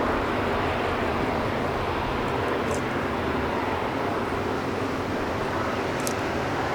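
Boeing KC-135R's four CFM F108 turbofan jet engines running with a steady, even jet noise.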